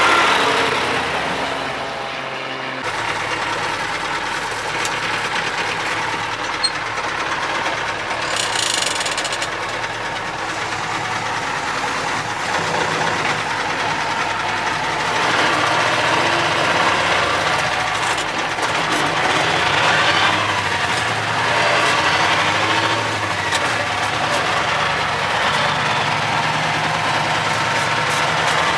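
Cummins 903 V8 diesel in a Ford LNT 9000 truck running steadily, its pitch shifting a little.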